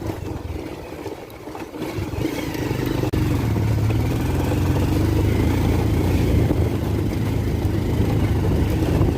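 Bajaj Pulsar 150 motorcycle's single-cylinder four-stroke engine running under load on a rough, stony climb, with the bike struggling to pull. It is quieter for the first two seconds, then rises to a steady drone after a brief dip about three seconds in.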